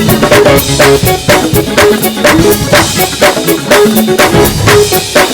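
Gospel praise band playing an instrumental groove, led by a drum kit striking about four sharp hits a second over bass and pitched instrument notes.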